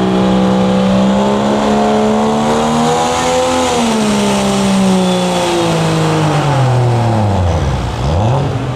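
Super Stock diesel pulling truck's engine running hard under load: its note climbs slowly, then from about halfway falls steadily to a low dip near the end and picks up briefly again. The falling revs go with a run that ends short, with something not quite right with the truck.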